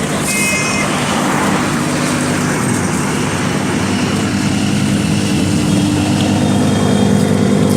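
Vehicle engine running steadily, its pitch rising slightly near the end. A short high horn beep sounds about half a second in.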